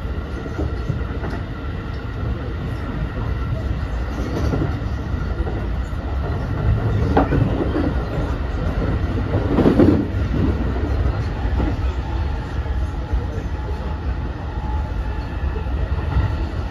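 Running noise inside a JR West 223 series 2000-subseries EMU, heard in the unpowered trailer car SaHa 223-2175: a steady low rumble of wheels on rail with a faint steady whine, swelling louder about ten seconds in.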